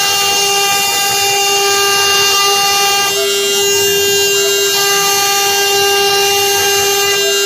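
Bogong CNC router's spindle running with a steady, loud whine under a high hiss as the bit engraves wood.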